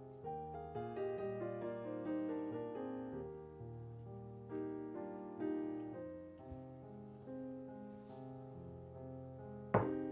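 Gentle solo piano background music, slow notes ringing on one after another. Near the end a single sharp knock stands out above the music.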